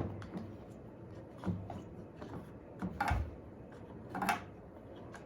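Faint handling noises as a washing machine's drain pump filter is pulled out and emptied: three or four short plastic knocks and rubs, with quiet room tone between.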